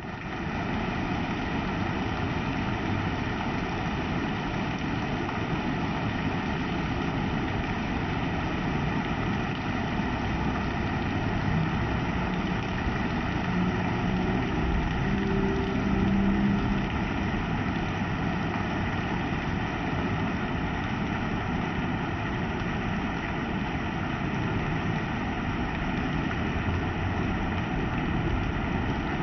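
Heavy rain falling steadily, a dense, even hiss. A low drone swells briefly around the middle and fades again.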